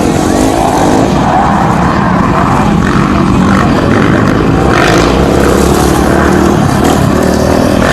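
Motocross dirt bike engines running and revving during a race, loud and continuous.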